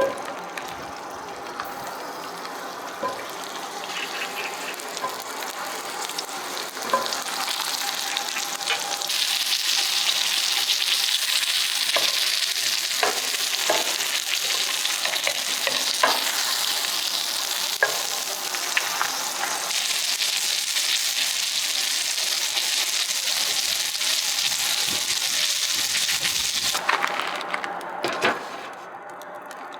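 Sirloin steak sizzling over an oak wood fire, a steady hiss with scattered small pops and crackles. The sizzle swells about a quarter of the way in and falls away suddenly near the end.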